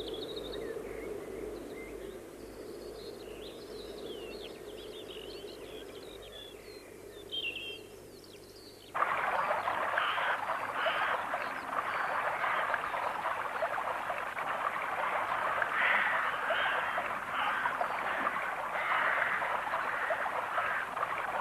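Faint bird chirps over a low hum, then an abrupt cut about nine seconds in to steady rushing water, like a stream running over stones.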